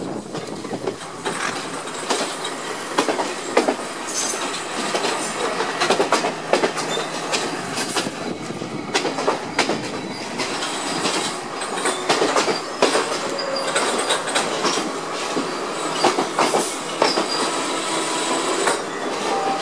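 Class S11 diesel multiple unit running slowly into a station, heard from aboard: steel wheels clattering and knocking irregularly over rail joints and points, with a brief wheel squeal near the end.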